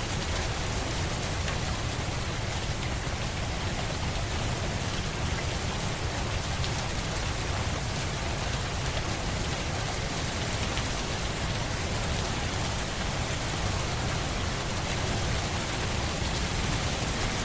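Steady rain falling on a surface: an even hiss with a deep rumble underneath.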